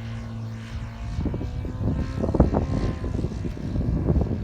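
OS GF40 single-cylinder four-stroke gasoline engine of an RC Spitfire model running steadily in flight. From about a second in, heavy wind buffeting on the microphone comes up in rough gusts and becomes the loudest sound, mostly covering the engine.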